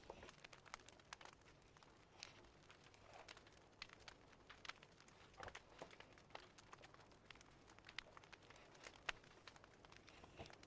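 Crackling fireplace, faint: irregular sharp pops and snaps, several a second at times, over a soft steady hiss.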